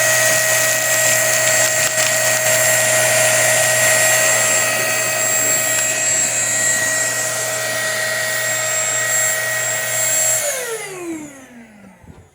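Small vacuum cleaner motor running at a steady high whine, pulling air through a homemade bucket cyclone separator and hose. About ten seconds in it is switched off and winds down, its pitch falling as it fades.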